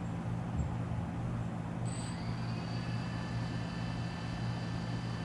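A steady low hum throughout. About two seconds in, the DJI Phantom 2 quadcopter's motors start and spin up to idle, adding a steady high-pitched whine of several tones.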